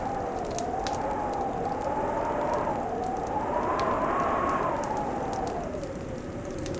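Fireplace fire crackling with scattered sharp pops, over a steady wintry wind whoosh that slowly rises and falls in pitch.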